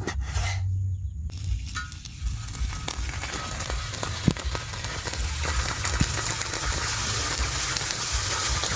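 Hamburger patties sizzling on the hot griddle plate of a wood-fired hearth, with scattered small pops. The sizzling starts about a second in and then runs steadily.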